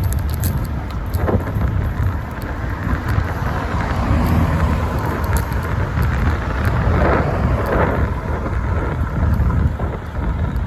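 Wind buffeting the microphone of a bike-mounted phone while riding, a steady low rumble with road noise, broken by occasional short knocks.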